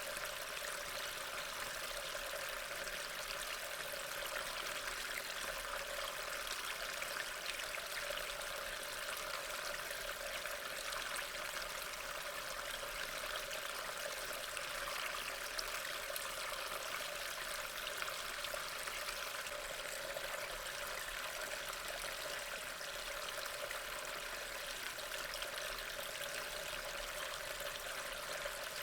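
Steady rain falling, an even hiss of many small drops that keeps on without a break.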